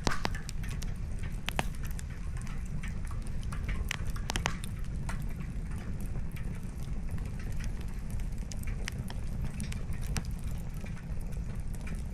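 Wood campfire crackling: burning logs give irregular sharp pops and snaps, a few louder ones in the first half, over a steady low rumble.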